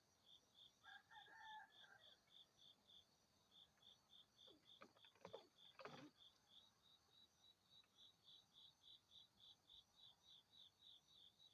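Faint, steady chirping of a cricket in an even pulse of about five chirps a second. A short two-note call comes about a second in, and a few soft knocks follow midway.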